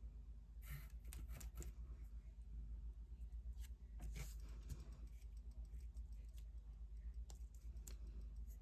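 Scattered light taps and clicks of a dotting tool dabbing black paint dots onto paper, over a steady low hum.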